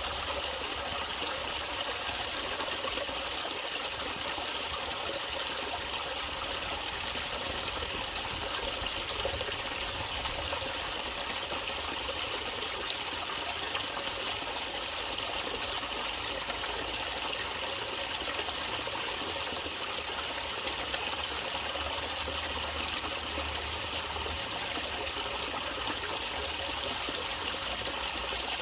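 Natural stream water trickling and flowing, steady and unchanging.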